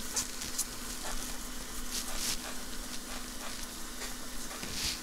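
A soldering stencil being scrubbed clean: irregular short scratchy strokes, a few of them longer, over a steady low hum.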